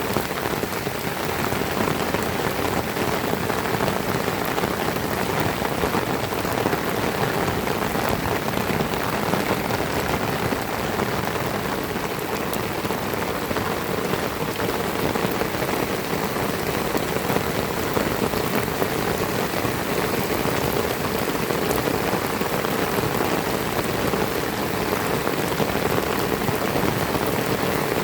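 Heavy rain falling steadily: a dense, even hiss of countless drops hitting surfaces.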